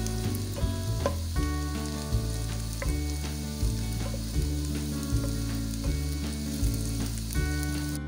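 Sliced onions sizzling and frying in oil in a steel pan, stirred now and then with a wooden spatula as they turn golden. A steady background music bed with a regular bass runs underneath.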